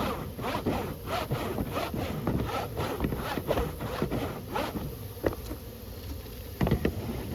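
A block of beeswax rubbed back and forth across the foundation of a plastic beehive frame, quick scraping strokes about three a second, followed by a few sharper clicks near the end.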